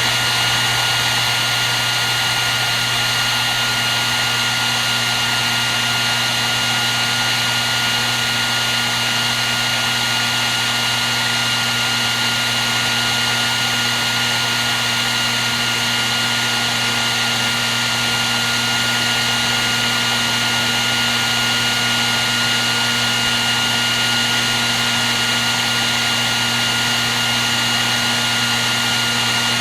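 Hair dryer running continuously: a steady rush of blown air over a low motor hum and a constant high whine from the fan.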